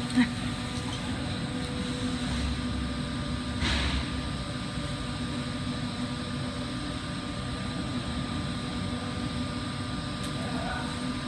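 Steady roar of a lampworking torch flame, with the hum of shop ventilation running underneath, while colored glass is melted onto a pipe.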